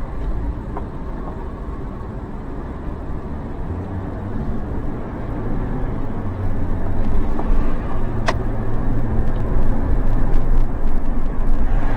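Car driving, with a steady engine hum and road rumble that grow louder from about halfway through. A single brief sharp click comes a little past the middle.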